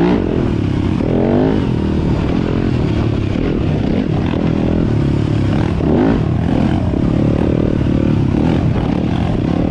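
Yamaha YZ250FX dirt bike's single-cylinder four-stroke engine running on the trail, the revs rising and falling with the throttle, with revving climbs about a second in and again near six seconds.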